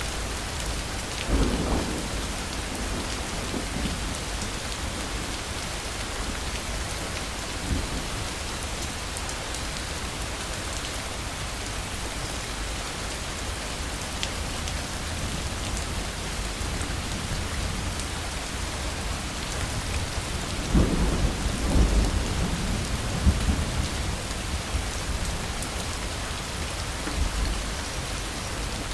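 Thunderstorm: heavy rain falling steadily, with thunder rumbling. A short roll comes about a second and a half in, and a longer, louder rumble comes about two-thirds of the way through.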